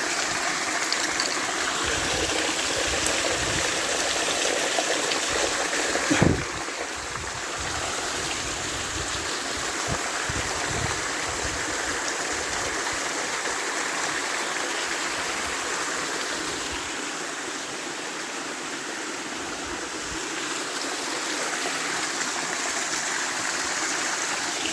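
Small waterfall rushing steadily, a continuous even splash of falling water, with one brief louder bump about six seconds in.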